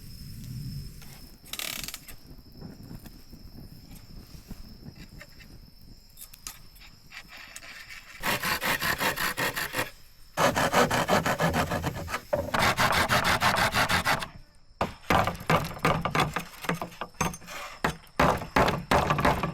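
Bamboo being worked with a hand tool: a run of loud rasping strokes that starts about eight seconds in, comes in long spells of about two seconds, then turns into shorter, choppier strokes near the end.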